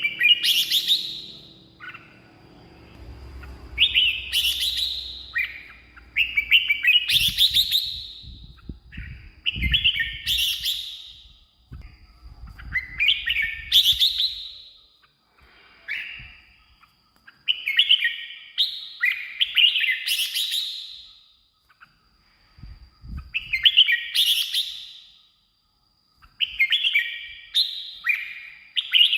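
Red-whiskered bulbul singing, a loud run of short warbled phrases, each ending in a rising flourish, repeated about every two to three seconds.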